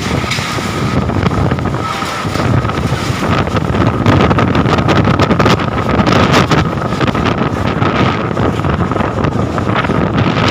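Strong wind gusting and buffeting the microphone, with a steady high tone running underneath.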